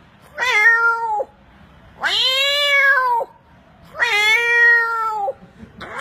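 A man imitating a cat with his voice: three drawn-out meows about a second apart, each lasting about a second, the middle one the longest and arching up and then down in pitch.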